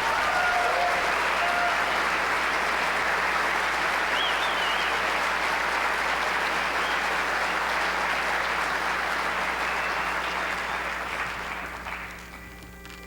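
Audience applauding a barbershop quartet's finished song, with a few short whistles in the first seconds; the applause fades away about twelve seconds in.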